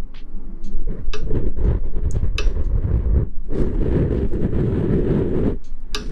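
Close rustling and rubbing on an ASMR microphone: a dense, heavy rustle with small clicks and taps that breaks off briefly about three seconds in, then resumes.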